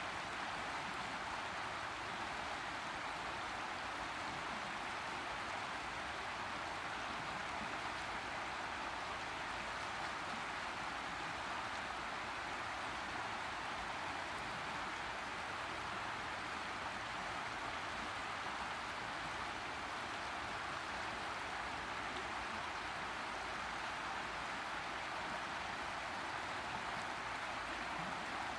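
Boise River flowing over rocks: a steady rush of moving water with no change in level.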